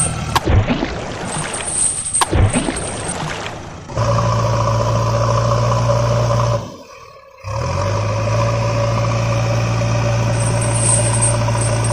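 A vehicle engine running steadily at one unchanging pitch, cutting out for about a second midway, after a few seconds of scraping noise and sharp knocks.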